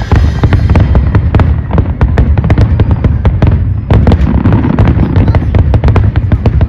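A dense barrage of firework bursts: many sharp bangs and cracks a second over a continuous low rumble, the closing finale of a fireworks show.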